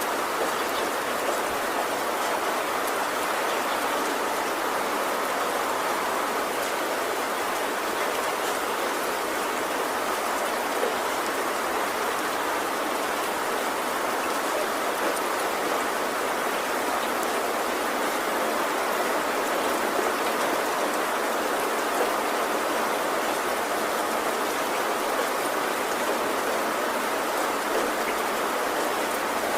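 Heavy rain falling steadily on a tin roof, an even hiss of drops with no let-up.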